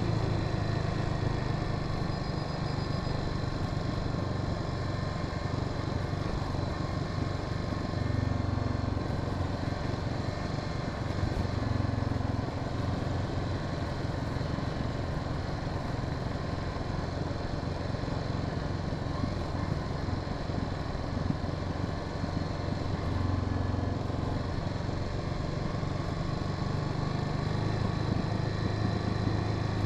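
Honda Sahara 300 motorcycle engine running under way at steady riding revs, rising slightly a few times, with road and wind noise under it.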